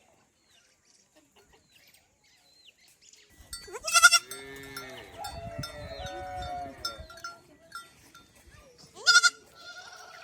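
Goats bleating: two loud calls, about four seconds in and again near the end, with fainter mixed pitched sounds between them.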